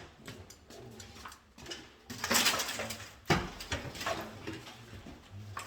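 Rustling and light clattering of small parts and tools being handled, with a short rustle about two seconds in and a sharp knock a second later.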